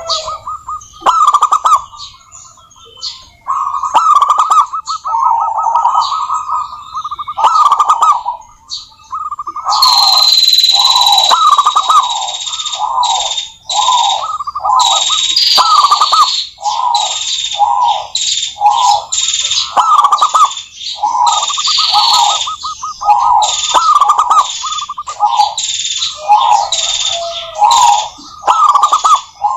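Zebra dove (perkutut) singing its rolling, stuttering coo phrases over and over, loud and close. From about a third of the way in, a steady high whine with a hiss sounds behind the cooing.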